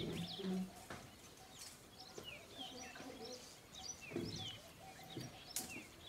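Small birds chirping: short, quick notes that slide down in pitch, scattered through the ambience, with a brief low sound about half a second in.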